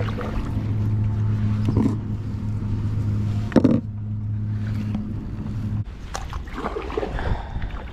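A steady low motor hum, with a single knock partway through, cuts off suddenly about six seconds in. Irregular rustling and knocks follow.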